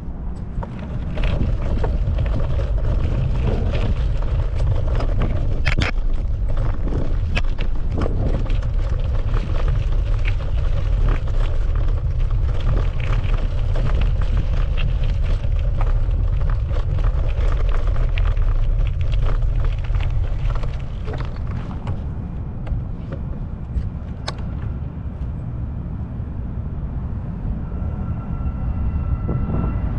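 Wind buffeting the microphone while riding a bicycle, a steady low rumble mixed with rattles and clicks from the bike and the road. It eases somewhat about two-thirds of the way through.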